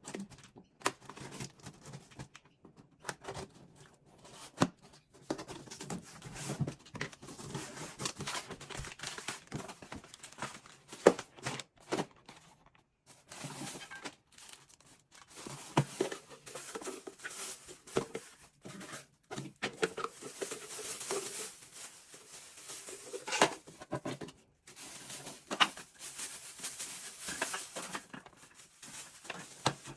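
Packaging being opened by hand: tape and paper tearing, wrapping crinkling and rustling, with irregular small knocks and clicks as items are handled.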